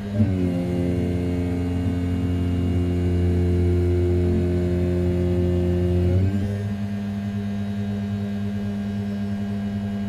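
A desktop CNC mill's 500 W brushless spindle turning at 6000 rpm while roughing A7075 aluminium makes a steady hum. A set of tones drops slightly in pitch just after the start and steps back up about six seconds in, as the cut and the axis moves change.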